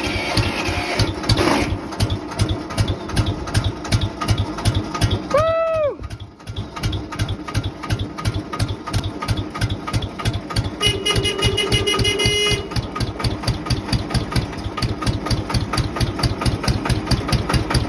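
McConnel-Marc 425 tractor's diesel engine running at idle with an even chugging beat just after a cold start on ether. It dips briefly about six seconds in, just after a short whistle that rises and falls, and a steady tone sounds over it from about eleven to twelve and a half seconds.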